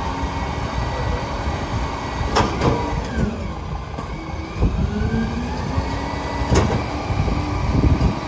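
International HV rear-loader garbage truck's engine running steadily, with gliding whines in the middle and sharp bangs at about two and a half and six and a half seconds in.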